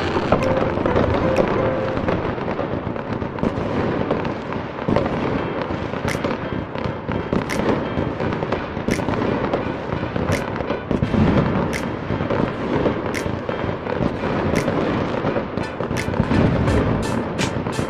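Fireworks going off in a continuous barrage of bangs and crackles, with music playing alongside. The sharp bangs come thick and fast near the end.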